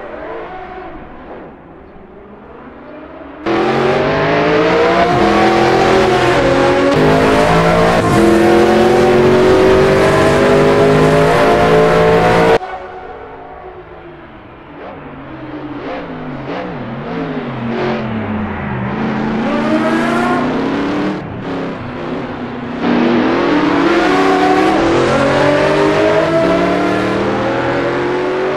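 Simulated supercar engine sound from a racing video game: two Ford GTs running hard, their engine note rising and falling in pitch as they accelerate and slow. It jumps suddenly louder about three seconds in, drops away sharply around twelve seconds, then builds again to a loud run near the end.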